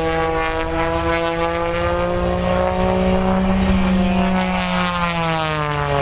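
Aerobatic plane's 385-horsepower piston engine and propeller running hard in a display flight. The pitch rises slightly, then falls from about four and a half seconds in as the plane passes.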